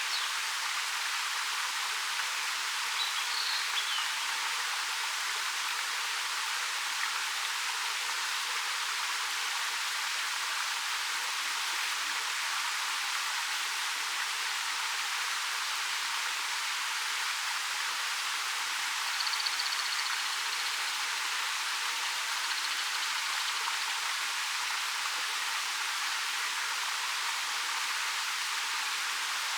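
Steady rush of a 13 m waterfall pouring down a rock face, an even hiss of falling water with little low rumble. A few faint, brief high chirps come through about 3 seconds in and again about 19 seconds in.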